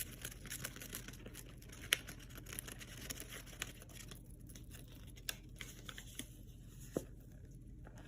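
Irregular small clicks and scratches, thick at first and sparser after about four seconds.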